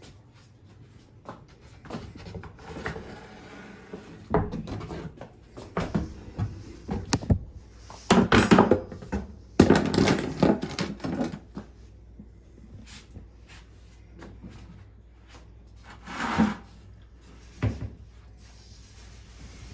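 Handling noises from work on fittings: a string of knocks, clicks and rubbing, loudest in two clusters around the middle and one more near the end.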